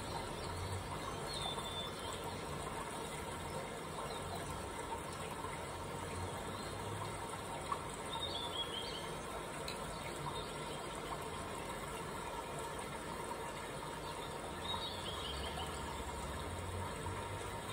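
Steady background hiss with a bird's short call of several quick falling notes, heard three times several seconds apart.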